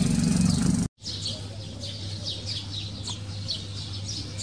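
Small birds chirping in a quick series of short, falling calls over a steady low hum. Before that, about a second of louder background noise cuts off abruptly.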